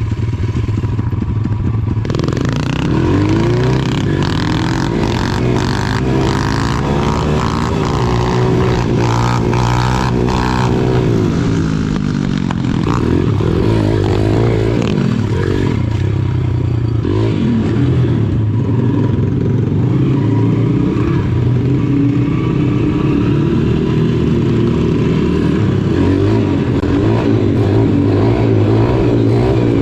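Small single-cylinder pit bike engines running and revving, the pitch rising and falling with the throttle in the first part, then holding steadier.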